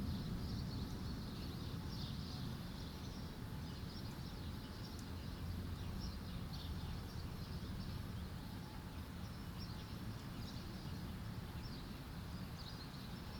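Birds chirping over a faint low rumble, in a lull between thunderclaps; the tail of the previous thunderclap fades away in the first second.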